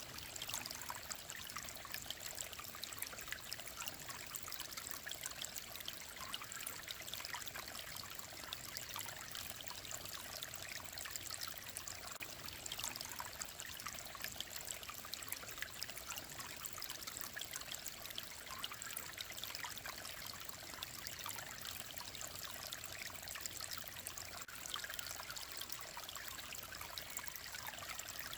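Mountain stream running and trickling steadily, an even splashing hiss sprinkled with tiny drips and plinks.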